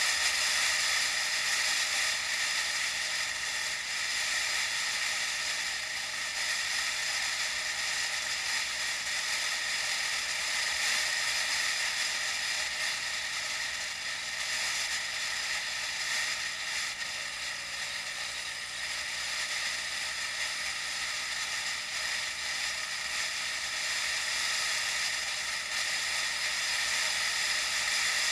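Steady hiss of road and wind noise during a bike ride, heard through an action camera, with no engine sound underneath.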